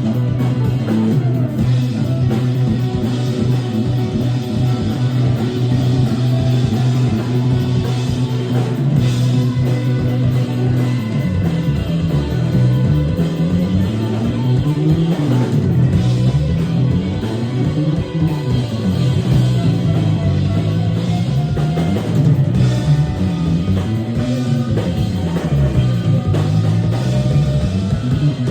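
Live rock band playing, with guitar and drum kit. Low notes are held steadily for the first part, then gliding pitches rise and fall repeatedly from about halfway through.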